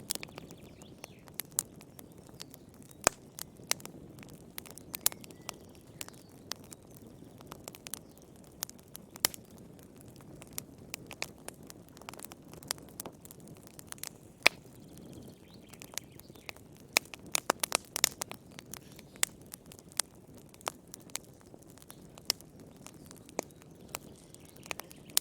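Firewood burning in a fireplace, crackling: irregular sharp pops and snaps over a soft, steady low rush of the flames, with a busier run of snaps past the middle.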